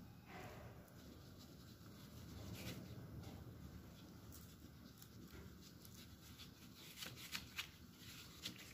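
Near silence: faint room tone, with a few light clicks near the end.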